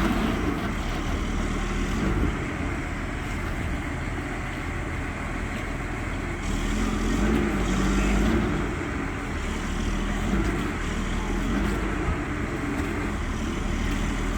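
A heavy vehicle's engine running steadily, growing louder for a few seconds about six and a half seconds in.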